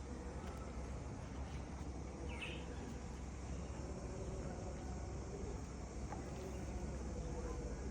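Quiet outdoor rural ambience: a steady low rumble under faint insect-like sounds, with one brief high chirp about two and a half seconds in.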